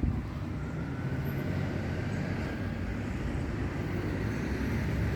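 Low rumble of a passing motor vehicle, slowly growing louder.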